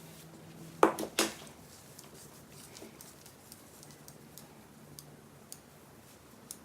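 A few sharp clacks of small hard objects being handled, three close together about a second in, followed by faint scattered ticks.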